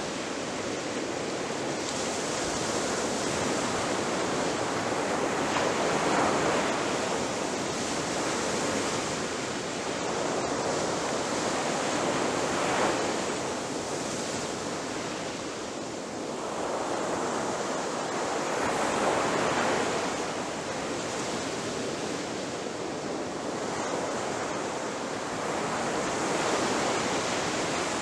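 Ocean surf: waves breaking on a shore in a continuous wash, swelling and easing every six or seven seconds.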